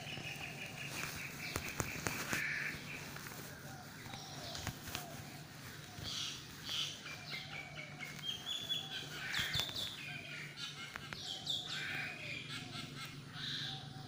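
Several birds calling, with runs of short, quickly repeated high notes overlapping one another. A steady low hum runs underneath, and a few sharp clicks come through.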